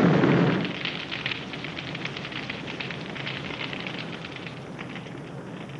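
A loud low rumble dies away within the first second, then a steady crackling carries on.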